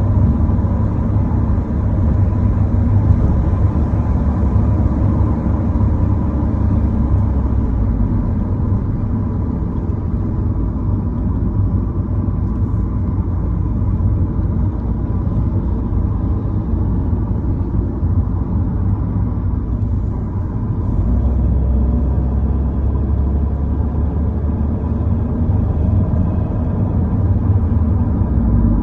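Steady low rumble of vehicle road noise, with a faint thin tone running through it.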